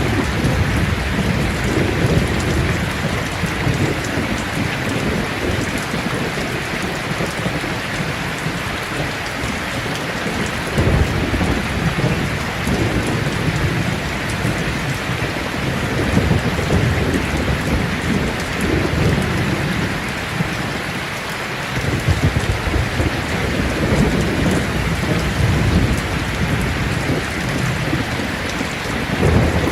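Heavy rain falling steadily on a tin roof, with thunder rumbling low several times, each roll lasting a few seconds.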